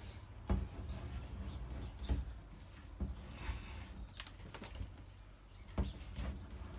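A new wall batten being worked down into place in a caravan wall: scraping and handling noise with four sharp knocks, the loudest about half a second in and near the end.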